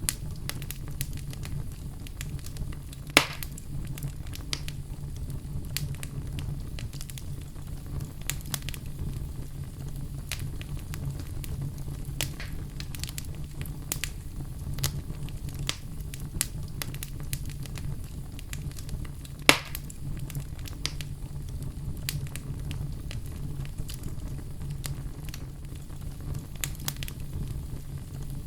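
Wood fire crackling in a fireplace: a steady low rumble under many small ticks, with a louder pop about three seconds in and another about twenty seconds in.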